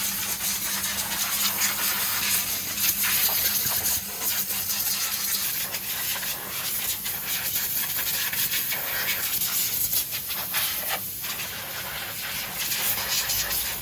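A loud, uneven hiss that swells and dips, with a faint steady hum beneath it.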